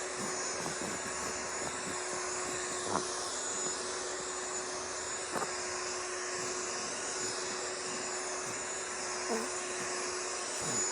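Vacuum cleaner noise playing as white noise to soothe a baby to sleep: a steady, even motor rush with a constant hum, broken only by two faint clicks.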